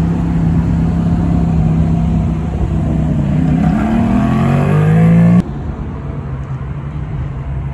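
A car engine running steadily, then revved with a rising pitch for about two seconds before it cuts off suddenly; a quieter, lower engine rumble carries on after the cut.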